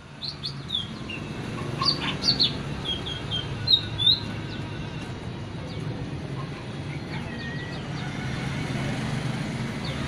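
Birds chirping: a dozen short, high chirps in the first four seconds, the loudest near four seconds in, then only a few more. A steady low hum runs underneath.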